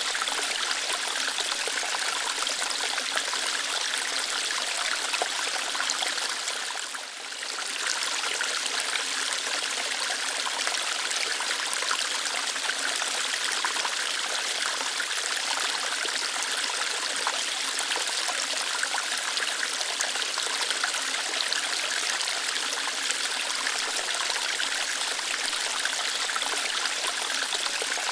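Small waterfall flowing lightly over rocks: a steady rush and splash of water that briefly softens about seven seconds in.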